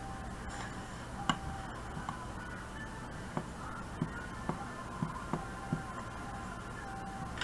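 Computer mouse clicks, about a dozen short sharp clicks at irregular intervals, over a steady low hum.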